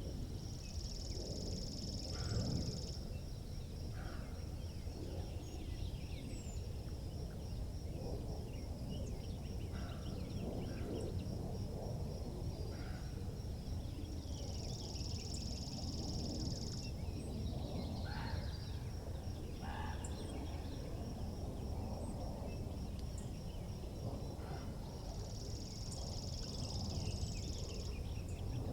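Wind rumbling steadily outdoors, with scattered short bird chirps. Three times a high, buzzy trill of two to three seconds stands out: just after the start, about halfway through, and near the end.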